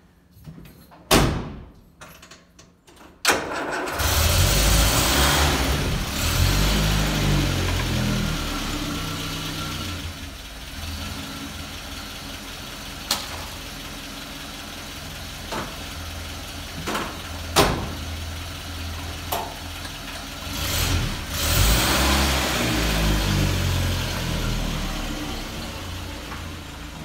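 A loud thud about a second in. Then a Land Rover Series 3's 2.25-litre petrol four-cylinder catches about three seconds in and runs, revving up, settling to an idle with a few clicks and knocks, then revving again before it fades near the end as the vehicle pulls away.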